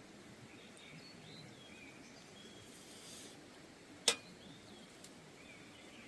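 Faint outdoor ambience with scattered short bird chirps, and one sharp click about four seconds in.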